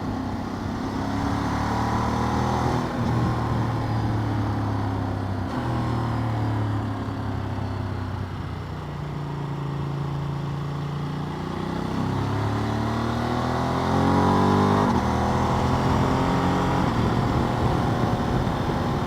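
Motorcycle engine running while riding along. Its pitch rises and drops several times as it accelerates and changes gear, over steady wind and road noise.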